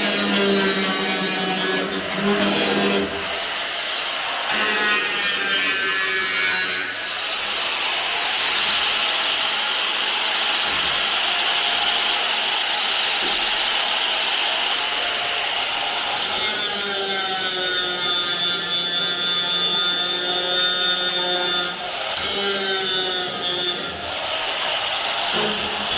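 Hand-held electric power tool working the car's bodywork steel in spells. Its motor note dips and rises under load, with a long stretch of hissing cutting or grinding contact in the middle.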